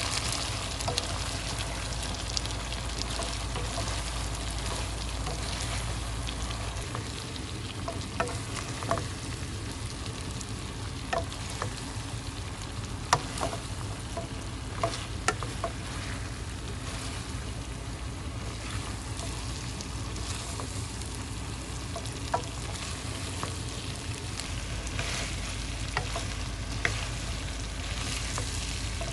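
Food frying with a steady sizzle in a pan, stirred with a cooking utensil that clicks against the pan now and then.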